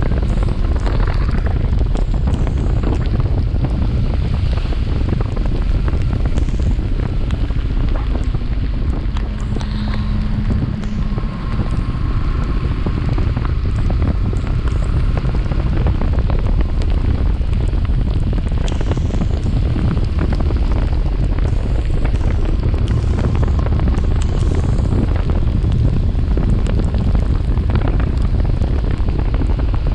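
Wind rushing over the microphone of a chest-mounted action camera on a moving motorcycle, a steady low rumble of wind and road noise throughout.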